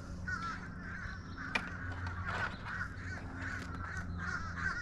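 Chattering, warbling bird calls over a low steady hum, with a single sharp click about a second and a half in.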